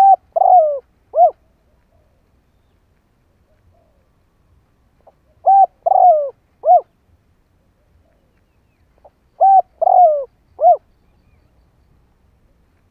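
A decoy spotted dove cooing: three phrases, a few seconds apart, each of short notes around a longer note that falls in pitch.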